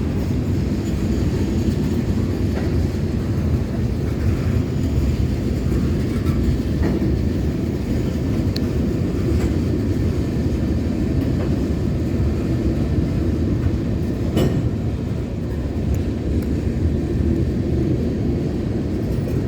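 Florida East Coast freight train's cars rolling past on the rails: a steady, loud rumble with a few sharp clicks, the sharpest about three quarters of the way through.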